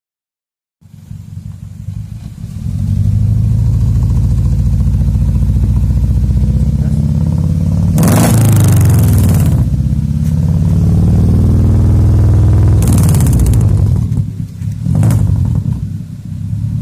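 Suzuki New Carry pickup's engine running loud through an aftermarket header and AJN GT01 racing muffler, a deep low exhaust note that comes in just under a second in and settles to a steady rumble. It is revved twice, a longer blip about halfway through and a short one later, then it drops back toward idle.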